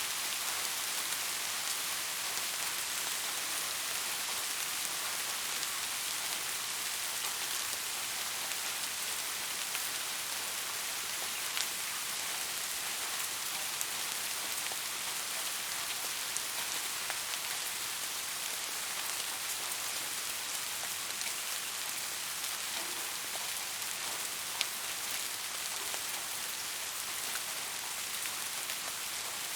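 Steady rain falling, an even hiss, with a few louder single drops striking now and then, the clearest one near the end.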